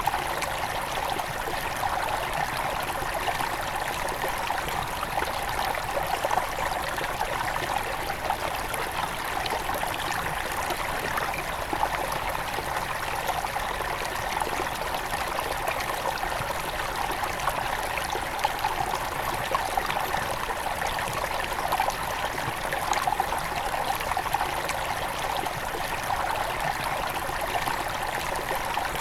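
Headwater stream of a forest river flowing steadily, a continuous babbling and trickling rush of water.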